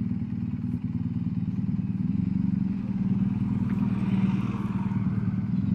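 BMW R1250GSA's boxer twin engine running steadily at low speed, heard from the bike itself, with a brief wash of road noise past the middle.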